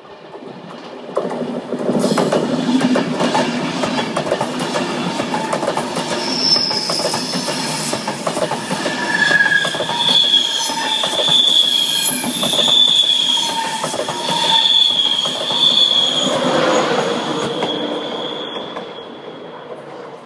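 East Coast Class 91 electric locomotive and its Mk4 coaches passing close by: wheels clattering over the rails, with high-pitched wheel squeal from the curving track repeating through the middle of the pass. It gets loud about a second in and fades as the last coaches go by near the end.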